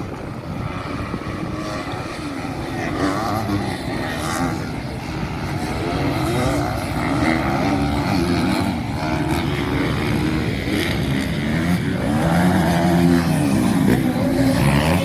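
Motocross bikes' engines revving, their pitch repeatedly rising and falling, getting louder toward the end.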